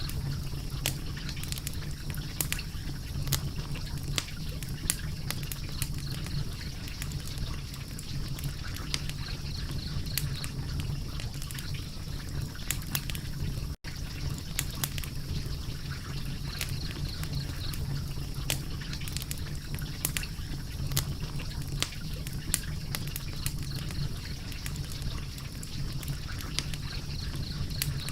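Wood fire crackling, with irregular sharp pops and snaps over a steady low rush of flame. The sound cuts out for a split second about halfway through.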